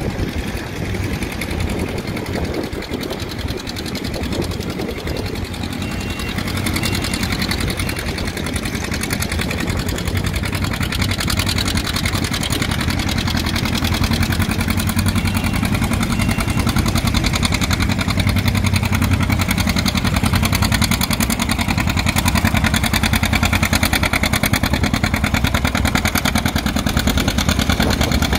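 Antique farm tractor engine running with a rapid, even exhaust beat, growing louder over the first half and then holding steady.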